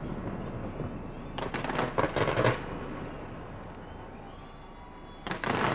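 Fireworks going off: a cluster of sharp bangs and crackles about a second and a half in, then a lull, then another short burst near the end.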